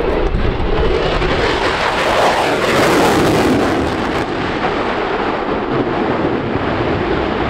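Military fast jet making a low pass with afterburners lit, a dense noise that builds to its loudest about three seconds in and then eases as the jet moves away.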